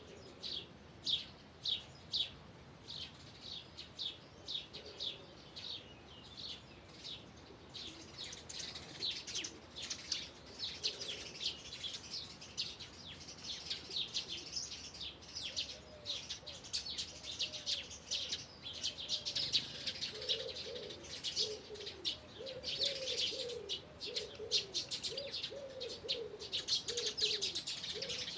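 Birdsong: a bird repeating a high chirp about twice a second, joined after about eight seconds by a dense chorus of high twittering from several birds. In the second half a lower call repeats over and over beneath the chorus.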